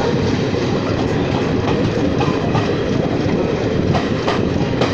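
Train coaches running along the track: a steady rumble with scattered clicks of wheels over rail joints.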